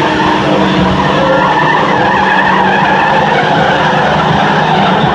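Pickup truck engine held at full throttle under load, with tires spinning and skidding; a loud, steady, unbroken racket.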